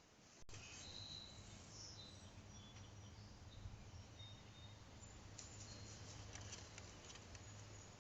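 Near silence: faint outdoor ambience with a low steady hum and a few faint, brief high chirps of distant birds.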